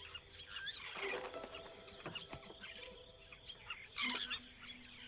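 Faint birdsong: many short chirps and calls from several birds, with a few held lower notes.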